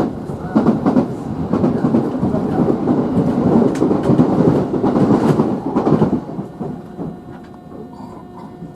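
Running noise of a JR Central 311 series electric train heard inside the car as it comes into the terminal: wheels rumbling on the rails, with several sharp clacks over rail joints. The rumble drops away about six seconds in.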